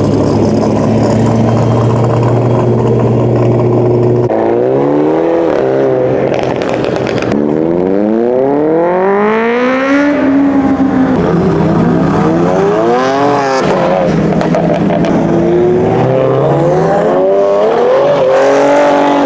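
A car engine idling, then revving and accelerating several times, its pitch climbing and falling back each time.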